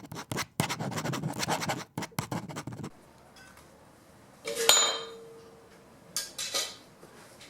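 Branches and tools being handled: scraping and rustling for the first three seconds, then a single clink about halfway through that rings briefly, then two short scrapes.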